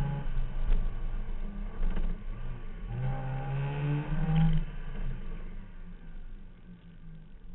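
Car engine heard from a hood-mounted camera as the car drives. The engine note holds steady, eases back, then climbs under acceleration about three seconds in. The throttle is lifted near five seconds, and the sound dies down to a low running hum.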